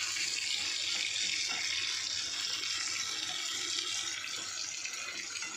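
Sliced onions, curry leaves and cumin seeds sizzling in hot oil in a frying pan as they are stirred with a spatula; a steady hiss.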